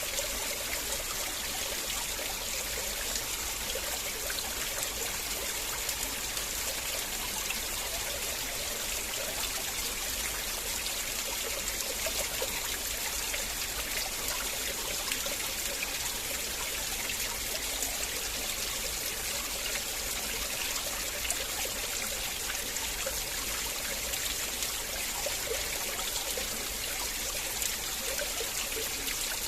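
River water flowing and trickling steadily over stones, a continuous even rush with small babbling flickers.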